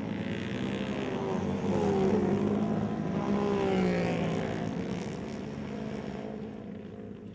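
Flat-track racing motorcycle engines revving, rising and falling in pitch as the bikes run through the turns, then dying away near the end.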